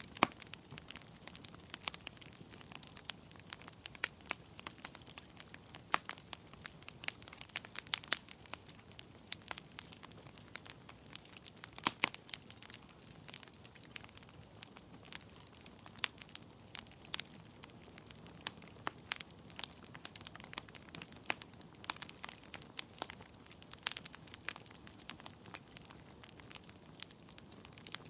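Wood fire burning in a fireplace: logs crackling with many irregular sharp pops over a low steady hiss, a few louder snaps among them.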